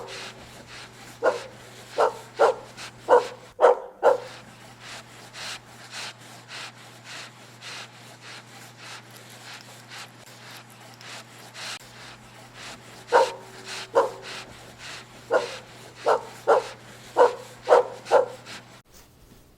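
A dog barking: a run of about six barks, a pause of nearly ten seconds, then about eight more, over a steady low hum.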